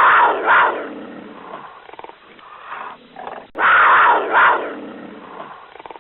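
Cougar call, given twice about three and a half seconds apart. Each call opens with two loud bursts and then trails off.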